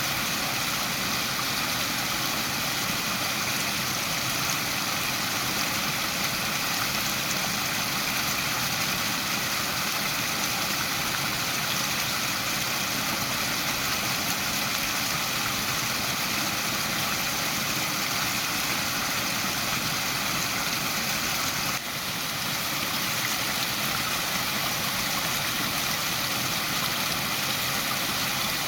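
Waterfall: water pouring and rushing as a steady, even hiss, with a brief dip in level about three-quarters of the way through.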